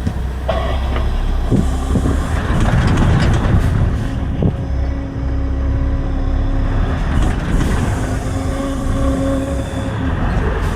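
Semi-truck's diesel engine running with a heavy, steady low rumble as the rig is slowly maneuvered to park a trailer, with a couple of short clicks and a faint steady whine over it.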